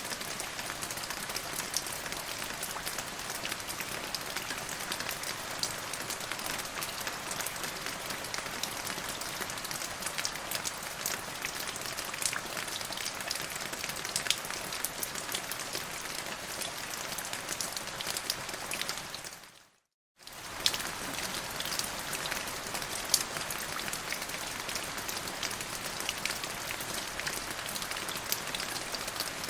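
Steady rain falling, an even hiss with scattered drop ticks. About two-thirds of the way through it fades out to silence for under a second, then comes straight back.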